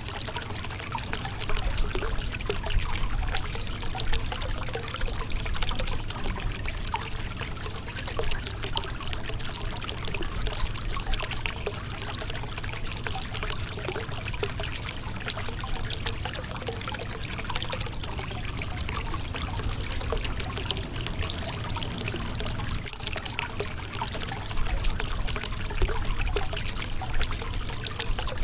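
Water running over a rocky riverbed, a steady rush of flowing water with many small splashes and trickles.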